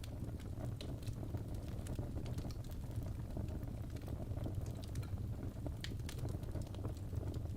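Fire burning in a fireplace: a steady low rush with irregular sharp crackles and pops scattered throughout.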